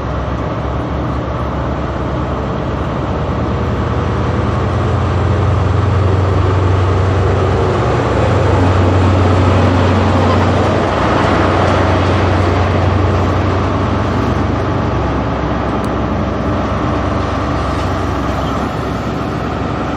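Diesel train running past at close range: a deep engine drone with rumbling wheel and rail noise, building to its loudest in the middle and then easing slightly.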